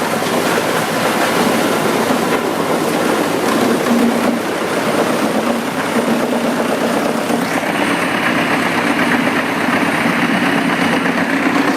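Heavy wood chipper running loud and steady, a dense mechanical din; about two thirds of the way through its sound shifts to a brighter, harsher band.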